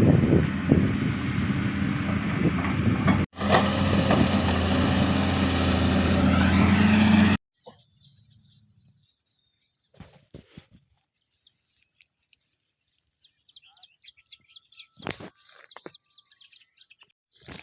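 Engine running steadily with a low hum, broken for an instant about three seconds in and cut off abruptly about seven seconds in. After that it is mostly quiet, with faint bird chirps and a few clicks.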